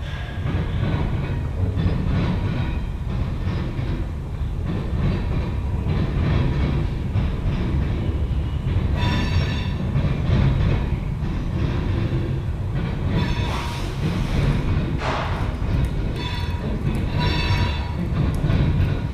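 Freight train cars rolling past on the rails with a steady low rumble. From about nine seconds in, high-pitched wheel squeals come and go several times.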